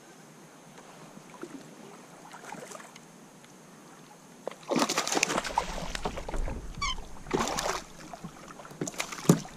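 Water sloshing and splashing around a kayak, in loud bursts about every two seconds starting about halfway through, with wind rumbling on the microphone.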